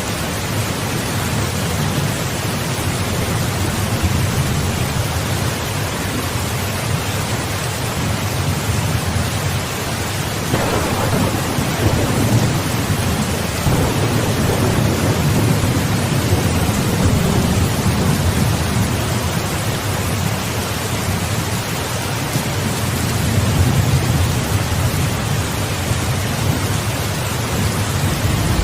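Steady rain falling through a thunderstorm, with a roll of thunder that cracks about ten seconds in and rumbles on for several seconds, and more low rumbling later.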